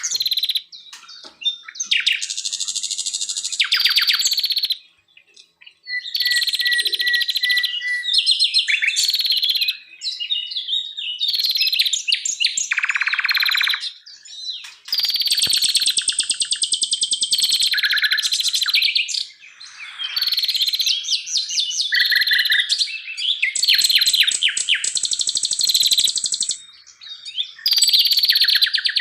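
Songbird song: high-pitched, rapid trilled and chattering phrases of one to two seconds each, following one another with short pauses.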